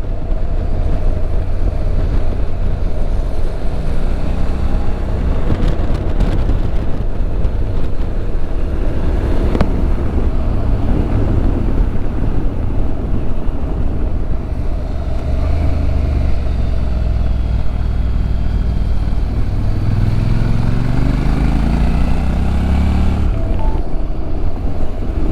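Motorcycle engine running while riding, under steady wind and road rush. Near the end the engine note climbs as the bike accelerates, then drops suddenly with a gear change.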